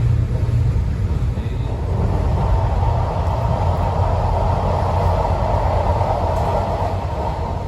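Ride noise of a locomotive-hauled regional passenger train running on the rails, heard from inside the carriage: a steady low rumble, with a louder hiss of wheel-on-rail noise from about two seconds in until near the end.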